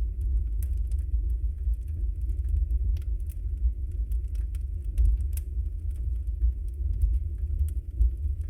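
Wood fire burning in a fireplace: scattered sharp crackles and pops over a deep, steady rumble, with one louder pop about five seconds in.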